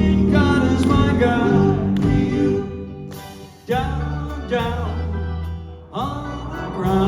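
Live band with layered vocal harmonies sustaining chords that fade away and are struck afresh twice, a little under four seconds in and about six seconds in.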